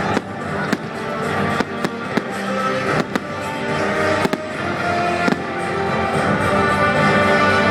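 Fireworks going off in sharp, irregular bangs, about nine of them, over loud music with a steady melody.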